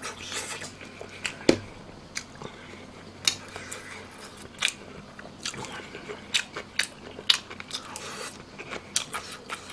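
A person eating pork spine stew (gamjatang): chewing the meat with many irregular wet mouth smacks and clicks, one sharper click about a second and a half in.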